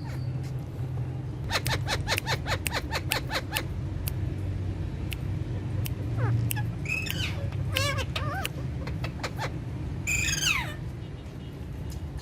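Pet parakeets calling: a quick run of short sharp notes, then wavering chirps, then one loud call that falls steeply in pitch. A steady low hum runs underneath.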